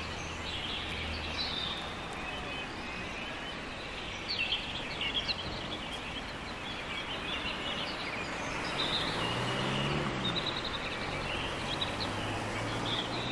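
Outdoor ambience: a steady background hush with small birds chirping now and then in short, high calls.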